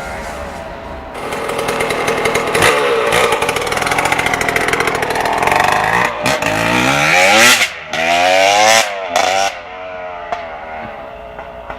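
KTM 200 EXC two-stroke engine running with no exhaust fitted, so it sounds open and noisy, revving up and down as the bike is ridden. Revs climb and hold high through the middle, several quick rising and falling blips follow, then it drops back to a lower, quieter run near the end.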